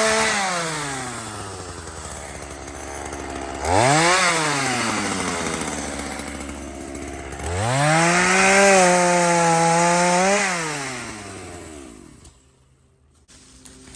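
Two-stroke chainsaw throttled up three times, the middle one a short blip, idling low in between, then stopping about twelve seconds in.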